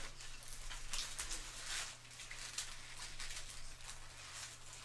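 Close-miked mouth sounds of biting and chewing a cheeseburger: irregular wet clicks and smacks, busiest about a second in, over a faint steady hum.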